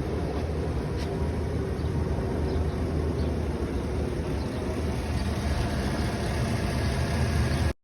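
2016 GMC Yukon XL's V8 engine idling steadily, a low even hum, which cuts off abruptly near the end.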